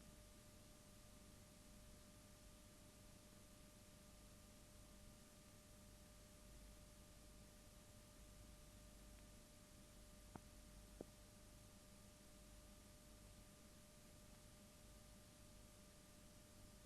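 Near silence: faint steady hiss and a low electrical hum, with two tiny clicks a little over halfway through.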